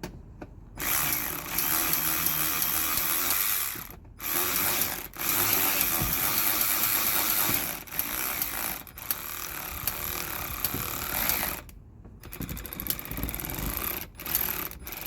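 A ratchet wrench clicking in long runs of a few seconds each, with short pauses between, as it works a jammed fastener.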